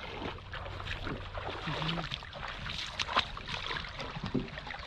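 Water splashing and sloshing, with many irregular small splashes and knocks.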